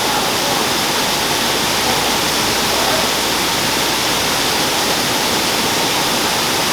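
Waterfall pouring into a pool: a steady, loud rush of water.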